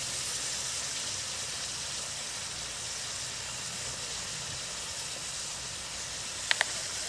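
Chicken pieces frying in hot oil in a steel kadai, a steady sizzling hiss. Two sharp clicks come close together near the end.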